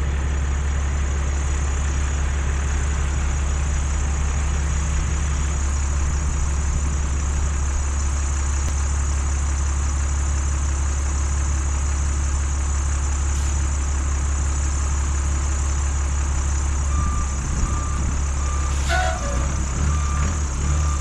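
A heavy vehicle's engine running steadily with a deep, even drone. About 17 s in, a reversing alarm starts beeping at an even pace as the vehicle backs up, with a single clank soon after.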